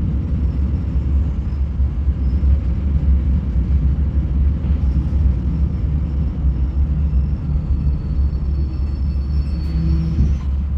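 Steady low rumble of a regional passenger train running along the track, heard from inside the carriage, with a faint high whine coming in near the end.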